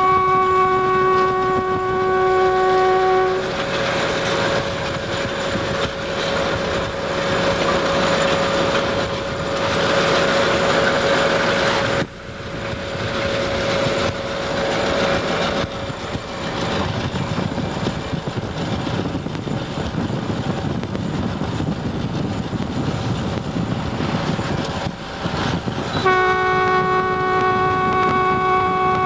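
Locomotive air horn sounding a steady multi-note chord, cutting off about three seconds in and starting again near the end. In between is a loud, steady rushing noise of the train and its wedge snowplow moving through deep snow, broken by an abrupt drop about twelve seconds in.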